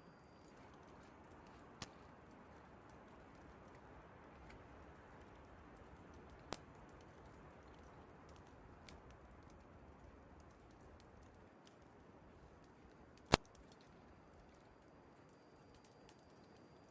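Campfire crackling: a few sharp, scattered pops, the loudest about 13 seconds in, over a faint steady rush of wind.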